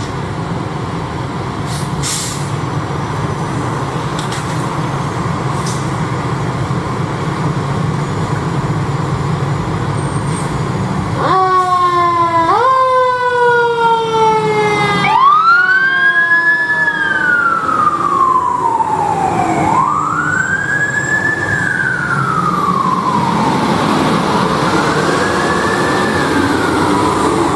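Fire apparatus responding: about ten seconds of steady truck-engine and traffic noise, then the siren starts with a couple of quick rising sweeps and settles into a slow rising-and-falling wail, cycling every four to five seconds. Near the end a second wail overlaps it.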